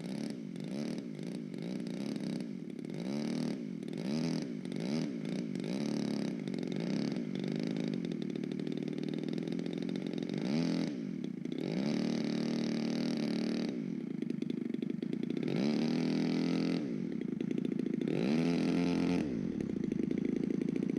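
Small buggy engine being revved in quick throttle blips, about one a second, for the first ten seconds or so, then held up in longer revs of one to two seconds each.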